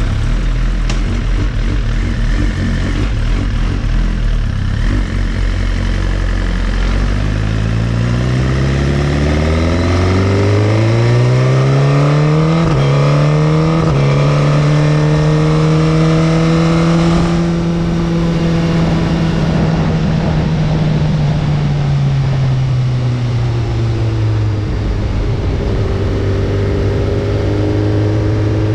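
Sport motorcycle's inline-four engine running low for a few seconds, then pulling hard with its pitch climbing steadily and two quick gear changes about halfway, holding high revs briefly, then easing off and settling at a steady lower pitch.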